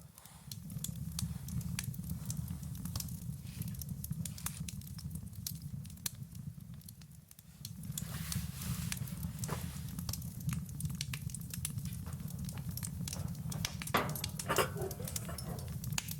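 Campfire crackling, with sharp pops scattered throughout over a steady low rumble that drops away briefly about seven seconds in.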